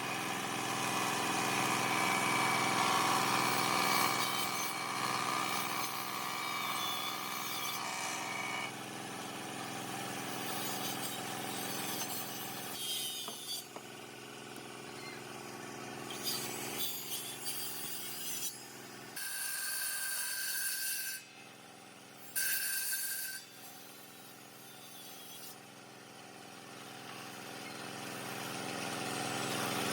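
Motor-driven woodworking power tools running and cutting palm wood. A steady motor note holds for the first several seconds, the sound changes abruptly a few times, and two short bursts of a higher whine come about two-thirds of the way through.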